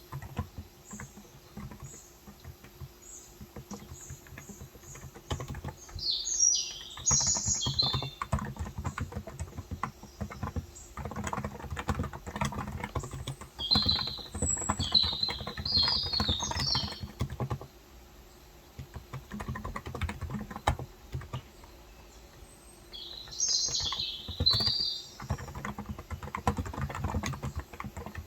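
Typing on a Cox Endeavor electrostatic capacitive (non-contact) tenkeyless keyboard with 35 g switches, keystrokes in uneven runs with short pauses. Birds chirp in three short bursts over the typing.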